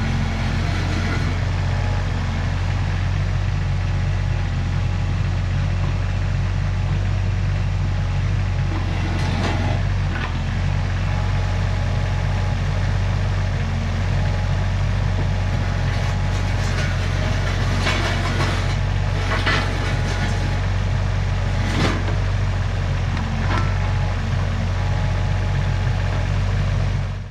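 An engine running steadily with a low hum, with a few short clanks and rattles now and then.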